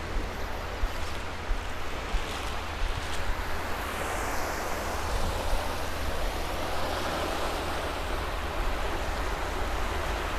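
Surf washing onto a sandy beach in a steady rush, with a low rumble of wind on the microphone.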